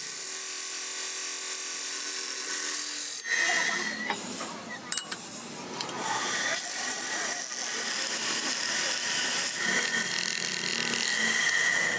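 A small high-speed power tool running on a ball bearing, in two long spells with a high whine. Between the spells come a few clicks and knocks of handling.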